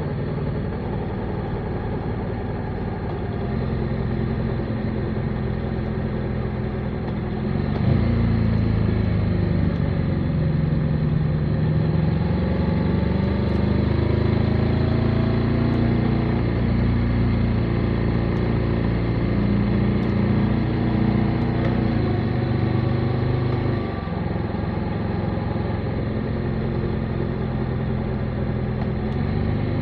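Motorcycle engine running under way with the throttle changing: it gets louder and higher about eight seconds in and eases off a little after twenty seconds.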